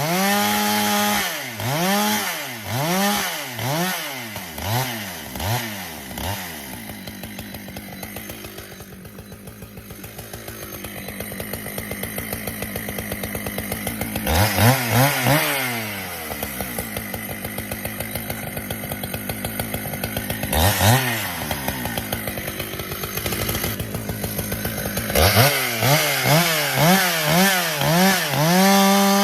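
Husqvarna 395XP, a big single-cylinder two-stroke chainsaw, bucking firewood at full throttle. Its pitch sags and climbs back again and again as the chain bites and frees in the cut. It drops to a lower, quieter run for several seconds in the middle.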